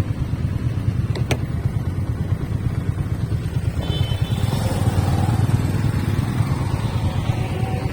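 Motorcycle running steadily under way, a continuous low rumble, with a short click about a second in.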